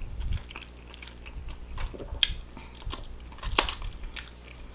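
Close-up chewing and lip-smacking of a mouthful of barbecue chicken, with scattered wet smacks and a few sharper clicks, the loudest about two and three and a half seconds in.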